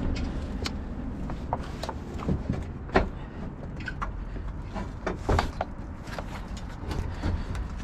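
Scattered knocks and clunks of scrap metal being shifted and pushed into a truck bed, with the sharpest knocks about three and five seconds in, over a steady low rumble.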